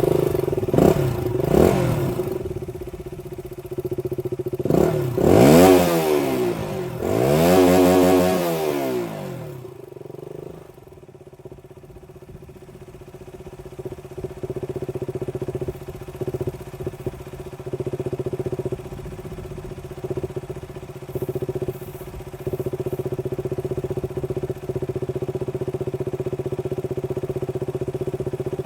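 KTM RC 200's single-cylinder engine, just started, revved several times in the first ten seconds, each rev rising and falling in pitch. It then settles to a steady idle.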